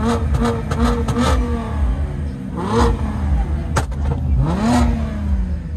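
A performance engine being revved hard in repeated blips: a run of quick short blips in the first second or so, then two longer revs that rise and fall, with a sharp crack just before four seconds in.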